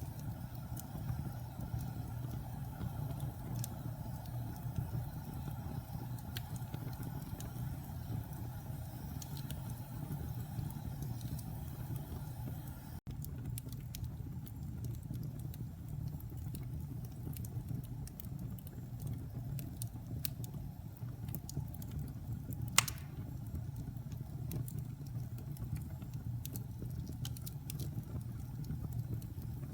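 Wood fire burning in a fireplace: a steady low rumble with scattered light crackles, and one sharp, louder pop about 23 seconds in.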